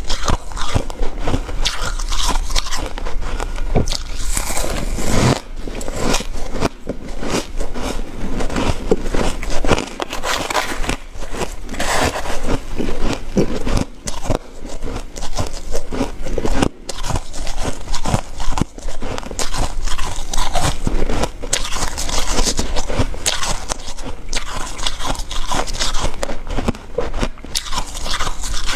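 Ice being bitten and chewed close to the microphone: crisp crunches follow one another closely, with a brief break near the middle.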